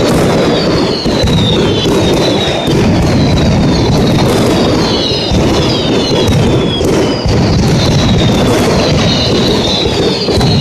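Mascletà firecracker barrage: a dense, unbroken run of loud bangs with whistling rockets falling in pitch again and again over the top.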